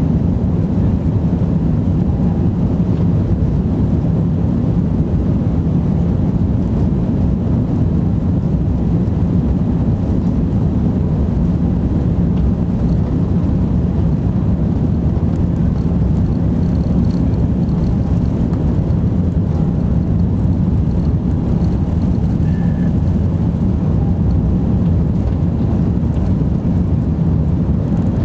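Airliner cabin noise in flight: a steady, low rumble of engines and rushing air, unchanging throughout.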